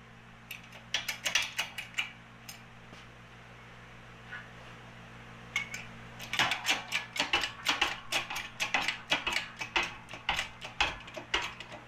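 Rapid metallic clicks and clinks from steel parts being handled and worked. There is a short burst about a second in and a dense run from about six and a half seconds on, over a steady low electrical hum.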